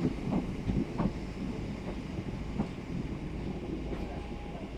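Southeastern Class 465 Networker electric multiple unit at the station platform, a steady low rumble with a few short knocks in the first three seconds.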